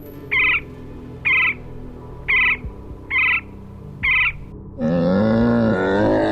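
Animal calls: short, sharp pitched calls repeated about once a second, giving way a little before the end to a longer, deeper, wavering call.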